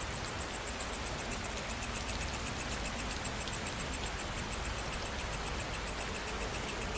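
Steady rain falling, with insects calling over it: a fast, high-pitched pulsing chirp throughout, joined about two seconds in by a second, lower pulsing call.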